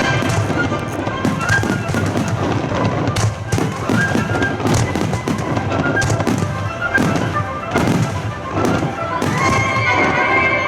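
Fireworks shells bursting in quick succession, several bangs a second at times, over music playing with sustained tones.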